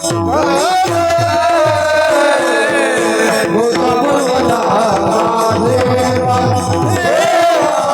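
Kirtan music: a singer holding long, bending devotional notes over a steady drone, with quick mrudang (pakhawaj) drum strokes whose low bass slides down in pitch.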